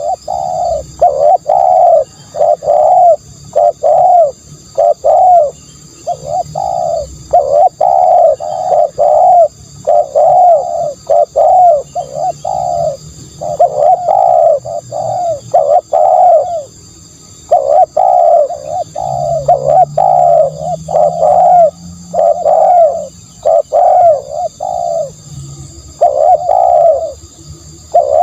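Spotted dove cooing over and over: short, hollow coo notes, about two a second, in runs broken by brief pauses.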